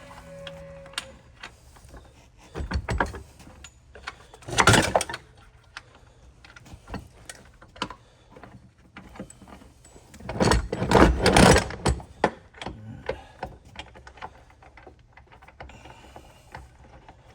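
Workshop handling noise while a bench vise is set up and a hydraulic cylinder is clamped in it: scattered metal clicks and knocks, with three louder stretches of clanking and scraping, the longest about ten seconds in.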